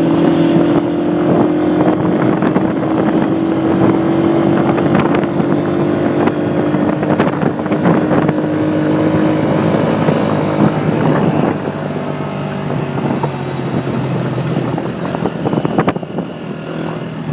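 Motorcycle engine running at a steady pace while riding, with wind noise over the microphone; the engine note weakens about ten seconds in.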